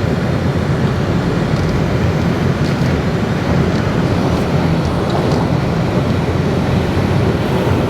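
Vehicle engine running steadily under load during a snow recovery with a tow strap.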